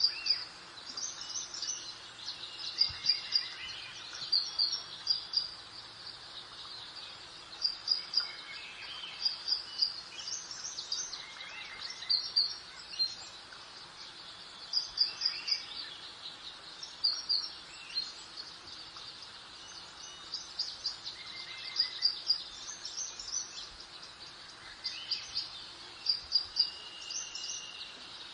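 Garden birds singing: short, high chirps in quick groups of two or three, repeating every second or two, over a soft, steady hiss of breeze.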